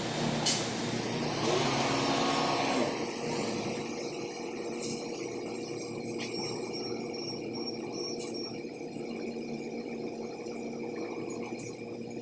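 Steady mechanical running noise, with a sharp click about half a second in and a brief pitched squeal around two seconds in.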